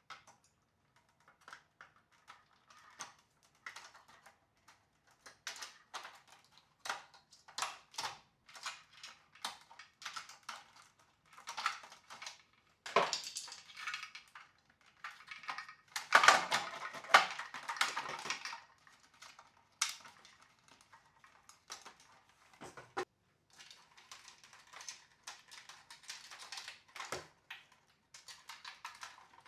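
Small hard parts and tools handled by hand, giving scattered irregular clicks and taps, with two louder spells of rattling and scraping about halfway through.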